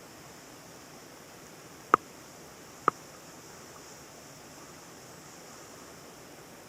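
Steady rushing of a small forest stream, with two sharp clicks about a second apart near the middle.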